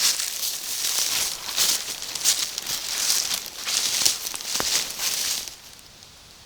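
Rustling and crackling of leaves and undergrowth brushed and trampled by someone moving through the forest, in quick uneven crunches, stopping suddenly about five and a half seconds in.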